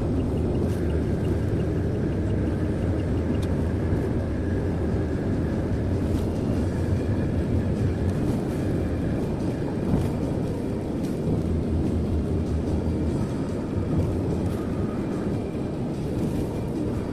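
Steady road and engine rumble inside a car's cabin while driving at speed on a highway.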